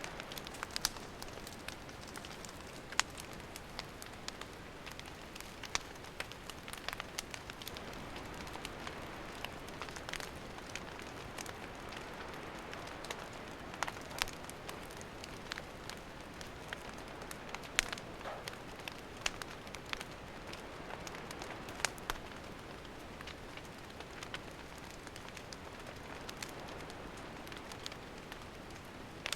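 Wood campfire crackling: irregular sharp pops and snaps, several strong ones a few seconds apart, over a steady soft hiss.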